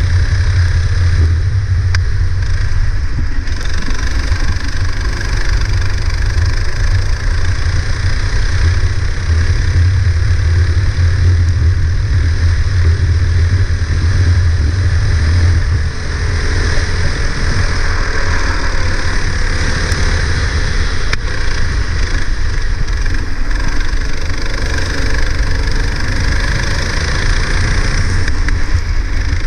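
Go-kart engine running hard through a lap, its pitch rising and falling again and again with throttle, over a steady hiss.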